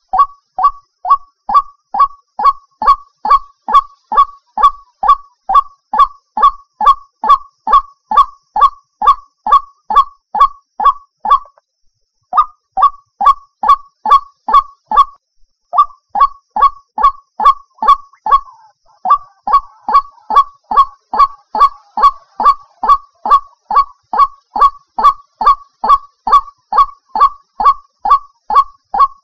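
White-breasted waterhen (ruak-ruak) call played as a bird lure: one short loud note repeated steadily about two and a half times a second, with two brief breaks about twelve and fifteen seconds in.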